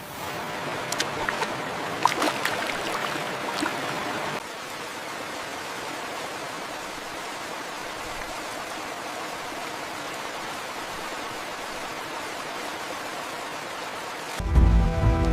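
Heavy rain falling, a steady rushing hiss. For the first four seconds it is louder, with many sharp ticks of drops striking, then it drops abruptly to an even, quieter hiss. Music comes in just before the end.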